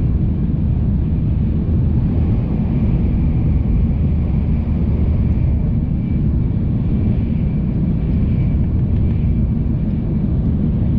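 Shinkansen bullet train running, heard inside the passenger car: a steady low rumble with a faint high whine over it.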